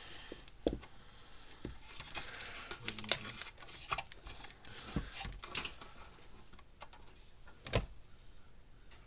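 Scattered light clicks and knocks from hands working at a bench as power is hooked up to a water-damaged solar electric fence charger. No pulse ticks from the charger itself: it does not come on.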